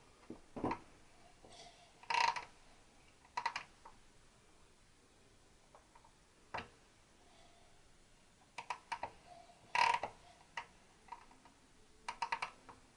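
Short scrapes and clicks of a hand tool working on the piston crowns at irregular intervals, a dozen or so strokes, with the loudest near the middle and near the end: carbon being cleaned off the pistons of a Triumph 650 twin.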